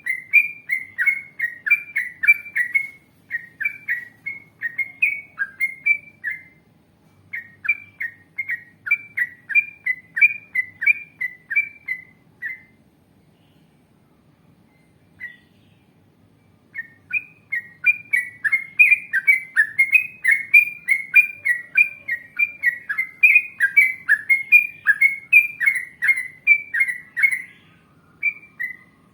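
Yellow-vented bulbul (trucukan) singing long runs of quick, repeated, down-slurred chirping notes, about two to three a second. The runs break off for a few seconds in the middle, with a single note in the gap, then start again.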